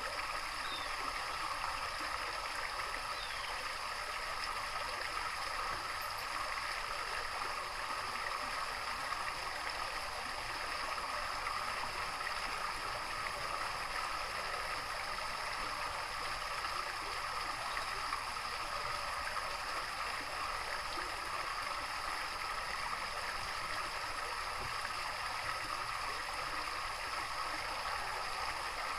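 Running water, a steady even rush and gurgle like a small stream or garden water feature, with no pauses.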